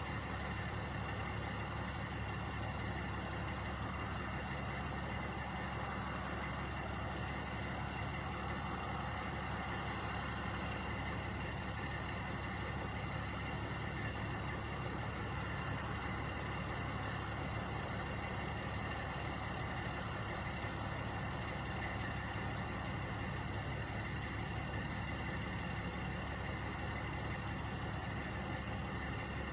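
Truck engines idling steadily, a constant drone that never rises or falls.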